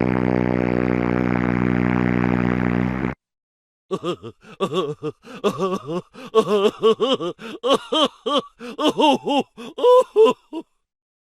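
Two novelty sound effects: a steady buzzing drone that cuts off after about three seconds, then a quick run of high, squeaky, voice-like chirps.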